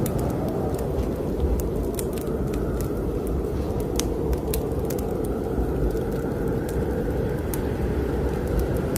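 Snowstorm wind blowing in a steady low rush, with a wood fire in a fireplace crackling over it in sharp, scattered pops.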